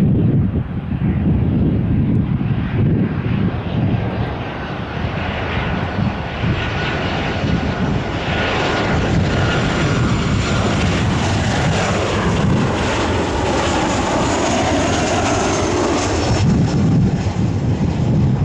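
Airliner's jet engines roaring as the plane passes close by, with a faint high whine that slowly falls in pitch partway through. Wind buffets the microphone with a low rumble near the end.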